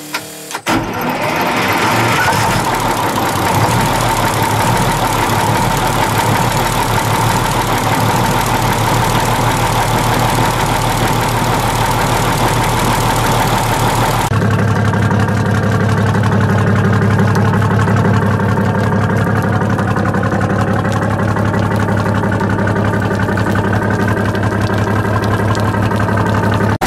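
Detroit Diesel 6-71 two-stroke inline-six diesel starting up about a second in and then running steadily, its first run after some 30 years idle, with freshly redone valves and fuel injectors. About halfway through the sound changes suddenly, the hiss dropping away and leaving a steadier low drone.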